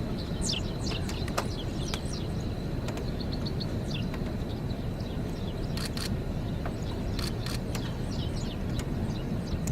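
Wind rumbling steadily on the microphone, with birds chirping in many short, high, falling notes and a few sharp clicks.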